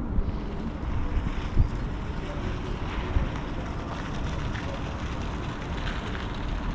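Wind blowing and buffeting the microphone: a steady rushing noise with irregular low rumbling gusts.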